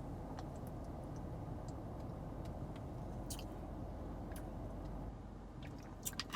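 Steady low hum of a car running, heard inside the cabin, with scattered faint clicks and a short cluster of clicks near the end.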